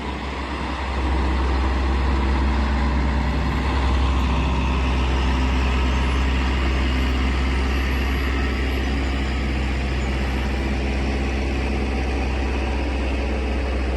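Tractor engine running steadily with a deep rumble, getting louder about a second in and then holding at that level.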